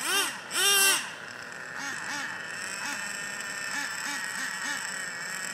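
Bird calls: two loud calls in the first second, each rising and falling in pitch, then fainter calls repeating about three times a second.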